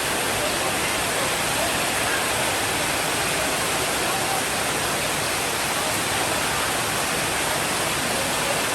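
Rain falling steadily: an even hiss with no breaks in it.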